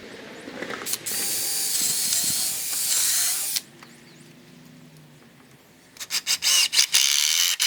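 Power drill working 2x4 wood: one steady run of a few seconds with a high whine, as when drilling a pilot hole. After a pause it comes back as several quick trigger pulses that run into a steady run, as when driving a screw into the rung.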